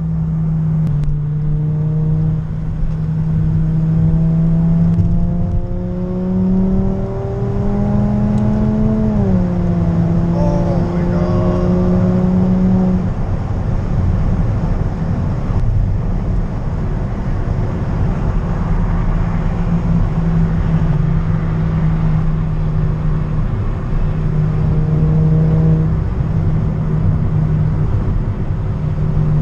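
A car engine running with a steady low note over a constant rumble. Its pitch climbs slowly for several seconds, drops about nine seconds in, then holds steady again.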